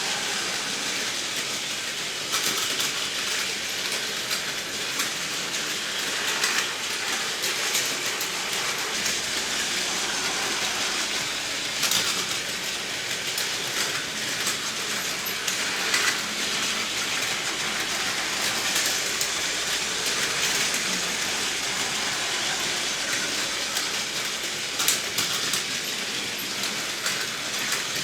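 Battery-powered Plarail toy trains running on plastic track: a steady whirring rattle with scattered clicks.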